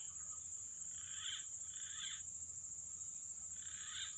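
Steady, high-pitched drone of insects such as crickets or cicadas, with three brief, higher animal calls about one, two and four seconds in.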